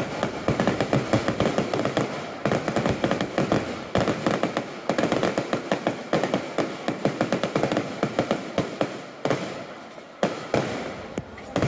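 Fireworks display: aerial shells bursting with dense, rapid crackling and a few louder bangs. The crackle thins out in the last few seconds, leaving a handful of separate sharp bangs.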